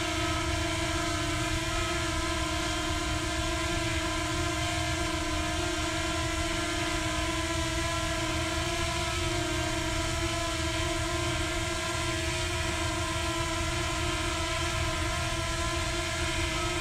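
Potensic Atom quadcopter drone's motors and propellers buzzing steadily in flight, holding one steady pitch.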